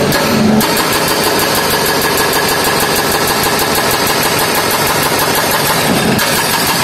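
Heavy road-works machine with its diesel engine running and a rapid, steady rattling vibration as it works on the road surface.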